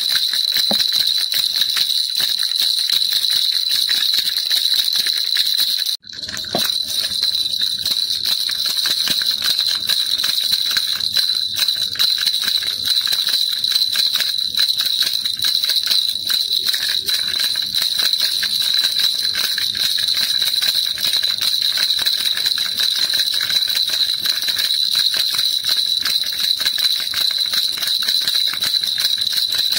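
Baby rattle shaken continuously, a dense, rapid jingling with a bright ringing edge. The sound cuts out for an instant about six seconds in, then carries on the same.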